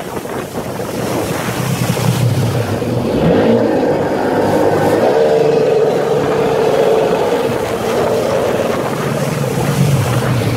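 Sea-Doo XP personal watercraft's two-stroke engine running with an uneven, misfiring note, its pitch wavering up and down. The misfire is the sign of a failed voltage regulator letting 17 volts reach the ignition.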